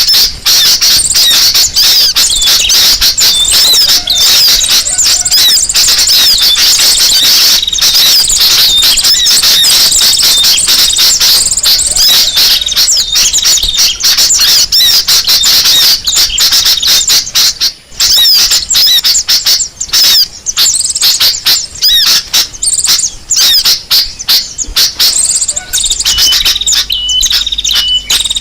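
Bird-lure recording of many small birds calling at once in a loud, dense, busy chatter of rapid high-pitched chirps and trills. Near the end a short call repeats several times at an even pace.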